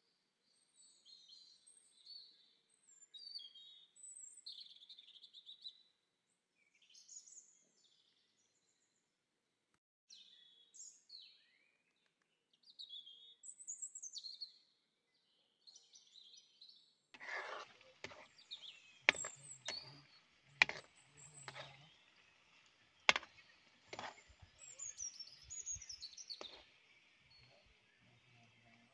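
Birds chirping in scattered short calls. About seventeen seconds in, bananas start sizzling as they fry in sugar in a wok, with a steady hiss broken by several sharp clicks.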